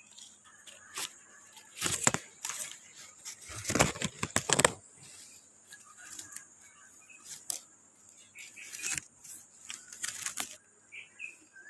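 Irregular rustling and crackling, loudest about two seconds in and again around four seconds in, over a steady high insect buzz.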